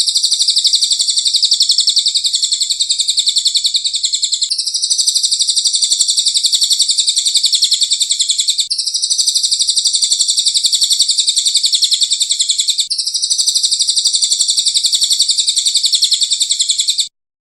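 A recorded songbird trill: a dense, very fast, high-pitched run of chirps played as a looped training recording for cage birds. The same stretch of about four seconds repeats four times with small seams, and the sound cuts off suddenly near the end.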